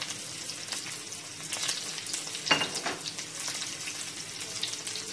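Onions, garlic, ginger and red and green chillies sizzling in oil in a frying pan over a low flame, with scattered crackles and one louder pop about two and a half seconds in.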